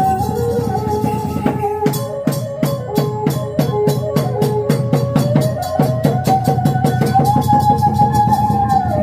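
Khmer chhay-yam ensemble music: drums and cymbals strike a quick, steady beat under a wavering melody line. The percussion comes in about a second and a half in.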